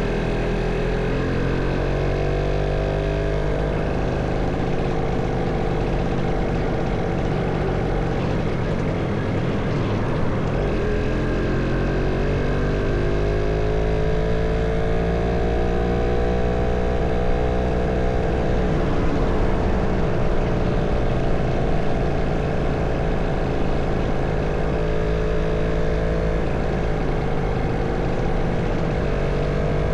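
Motorcycle engine running while riding, its pitch rising and falling slowly several times as the bike speeds up and slows down, over a steady rush of wind and road noise.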